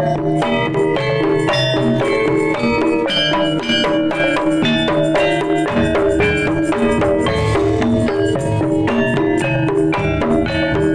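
Kendang drums played in jaipong style with a jaranan feel, amplified through a sound system, over a fast, busy pattern of pitched tuned percussion.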